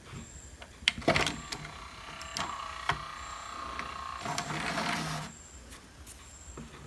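Clicks, then the small motor and gears of the LG DH4130S DVD home theater unit's disc drive whirring for about three seconds before stopping abruptly; the unit is running again after a power supply repair.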